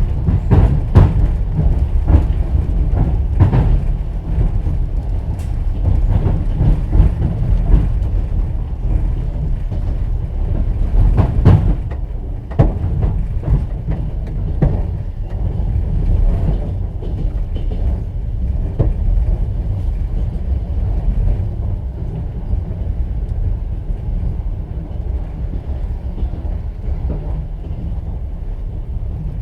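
Inside a sleeper carriage of a moving train: a steady low rumble, with the wheels knocking and clicking over rail joints. The knocks come thick in the first half, the loudest about eleven seconds in, then thin out as the run gets a little quieter.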